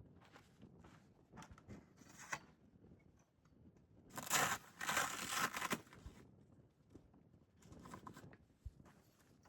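Gear being handled while a cooking setup is laid out: small knocks and rustles, then a louder rustling or tearing about four seconds in that lasts nearly two seconds.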